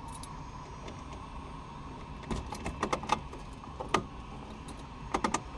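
Several sharp clicks and small rattles of switches and keys in a Cessna 172 cockpit, heard through the intercom over a steady faint hum, in the moments before engine start.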